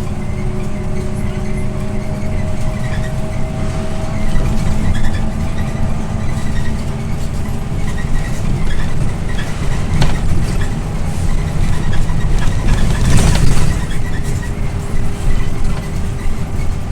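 Scania OmniLink I city bus under way, its engine and road rumble steady with a faint engine whine that comes and goes. Two sharp knocks, about ten and thirteen seconds in, are rattles of the bus over bumps.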